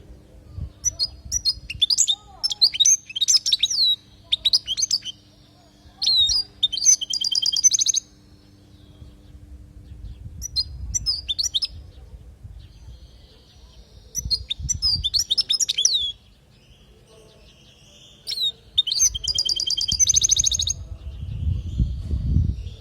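European goldfinch singing in four bursts of fast twittering with buzzy trills, separated by short pauses. A low rumble comes in near the end.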